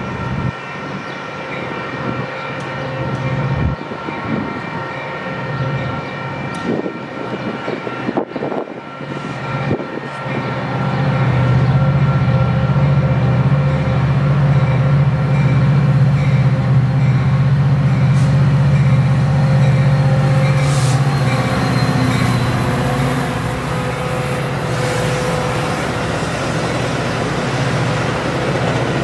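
Metra diesel commuter train passing close by. The locomotive's engine rumble swells to its loudest about a third of the way in and stays strong for several seconds, then the bilevel passenger cars roll past with a steady rail noise.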